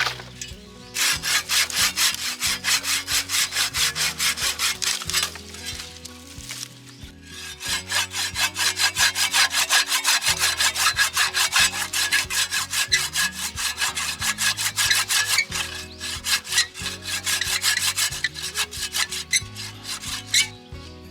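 Hand saw cutting through wood with quick, even back-and-forth strokes, about three a second, stopping for about two seconds partway through and then carrying on.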